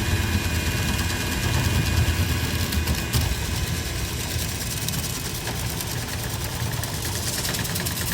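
Cleaning equipment motor running with a steady, engine-like hum.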